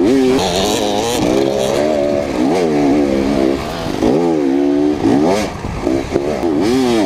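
GasGas enduro motorcycle engine, heard from on board, with the revs rising and falling again and again as the rider works the throttle over rough ground.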